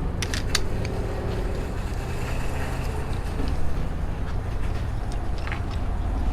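Steady low rumble of road traffic, with a few sharp clicks about half a second in.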